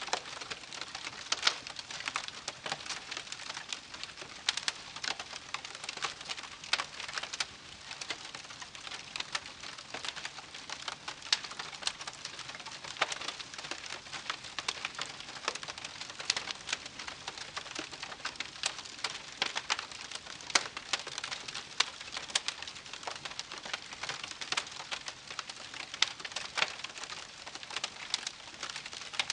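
Wood campfire crackling: a dense, continuous run of small pops and snaps over a steady hiss, with no lull.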